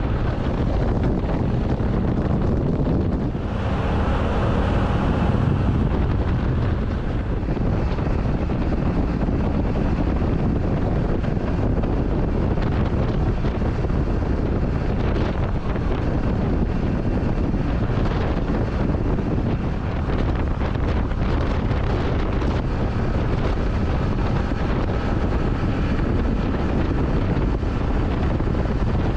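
Motorcycle running at road speed, with heavy steady wind rush on the microphone.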